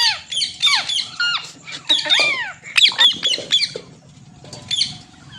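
A pet green parrot gives a rapid run of short, shrill squawks, each falling in pitch. After a brief lull near the end it gives one more squawk.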